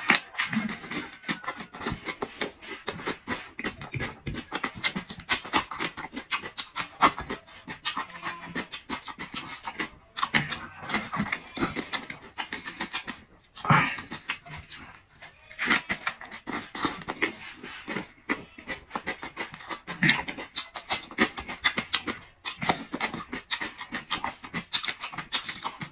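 Close-miked chewing: a person bites and crunches food with rapid, irregular wet mouth clicks and smacks, pausing briefly a few times.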